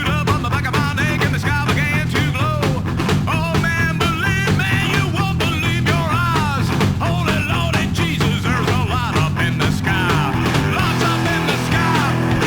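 Rockabilly band playing loud, driving rock: a steady bass and drum pattern under a lead line that bends up and down in pitch. About ten seconds in, the lead gives way to steadier held notes.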